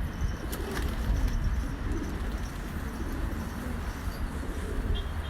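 Domestic pigeons cooing, over a steady low rumble.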